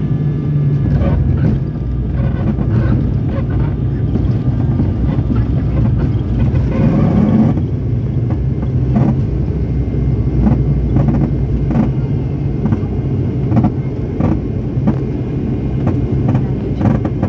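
Inside the cabin of an ATR 72-600 turboprop: the engines' steady low drone, with repeated rattles and knocks as the aircraft rolls on the ground after landing. A louder rushing swell builds about six seconds in and cuts off suddenly about a second and a half later.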